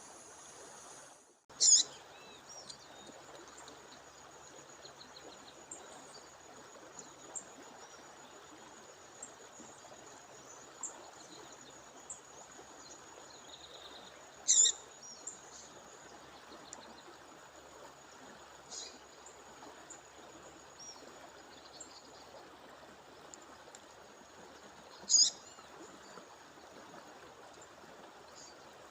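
A female songbird gives a short, sharp call three times, roughly every eleven seconds, with faint chirps between, over the steady rush of a stream or waterfall. A thin, steady high-pitched tone runs underneath.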